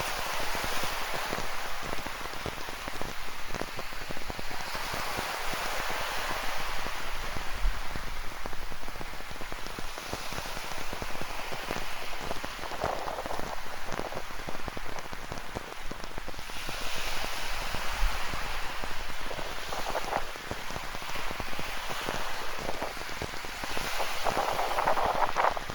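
Ocean surf on a rocky shore with rain falling: a steady wash that swells and eases every several seconds, with many small drop ticks through it.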